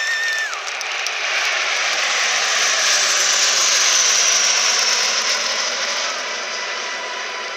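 Alpha Jet trainers flying past: jet engine noise swells to its loudest about four seconds in and then eases off, with a high whine falling in pitch as they pass.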